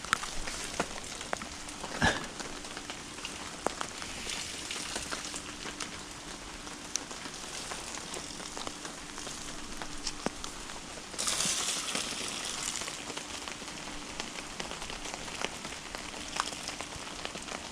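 Fire crackling in a small charcoal-fuelled cooking stove, with scattered sharp clicks and a knock about two seconds in. A louder burst of rustling comes about eleven seconds in and lasts a couple of seconds.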